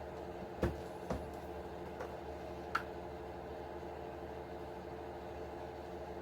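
A few short clicks and knocks, the first and loudest just over half a second in, from parts of a radio-controlled truck being handled during teardown, over a steady background hum.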